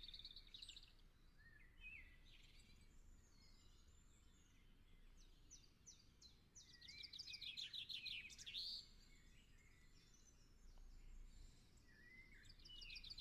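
Faint birdsong: small birds chirping, with quick trills of rapidly repeated high notes near the start, again from about seven to nine seconds in, and near the end.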